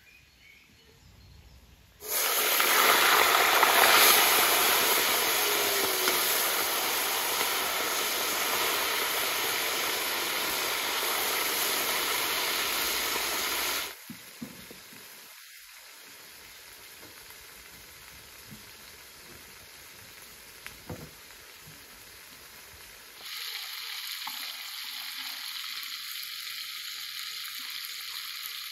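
Chicken and vegetables frying in oil in a large metal cauldron: a loud, even sizzle starts about two seconds in and cuts off abruptly halfway through. A quieter stretch with a few light knocks follows, then a steady, softer sizzle returns near the end.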